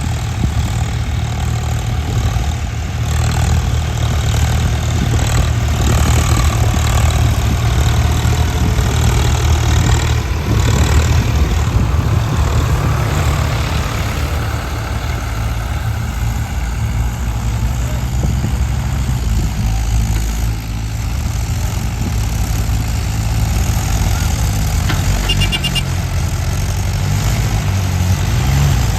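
Heavy diesel earth-moving machine engine running steadily, its engine note shifting a little over time.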